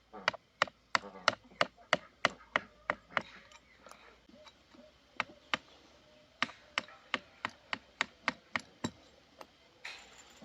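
A tool striking wood in a rapid, regular rhythm, about three sharp blows a second, stopping for about two seconds partway through and then going on again; a short scraping rasp near the end.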